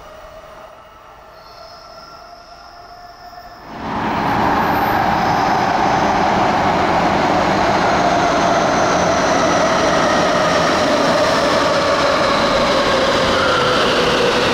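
Faint tail of a train sound for the first few seconds, then a sudden jump about four seconds in to a Tsukuba Express TX-2000 series electric train running into an underground station: a loud, steady rush with several tones gliding slowly down in pitch as the train slows for its stop.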